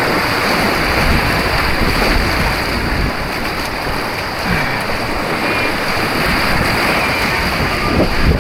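Rushing white water of an artificial slalom course, a steady loud roar of churning water close to the camera.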